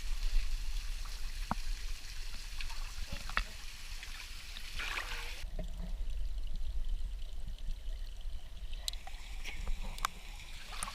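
Stream water running steadily over rocks, with a few small clicks and knocks; the high hiss of the water drops suddenly about halfway through.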